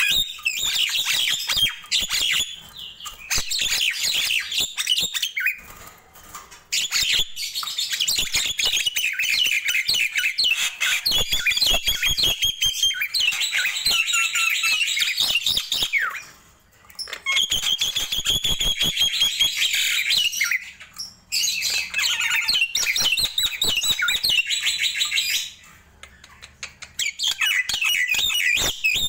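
Nias hill myna singing: long runs of rapid, varied chattering and whistled notes with sharp clicks, broken by a few short pauses.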